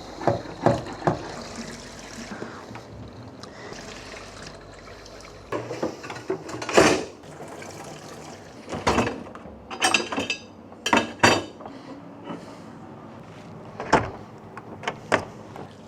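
Washing up at a small sink: tap water running steadily for the first few seconds, then dishes and cutlery clinking and knocking against each other and the sink in short bursts.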